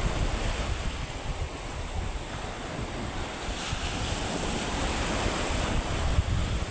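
Surf washing onto the beach under strong gusty wind, with the wind buffeting the microphone in a steady low rumble: the rough seaside weather ahead of a typhoon.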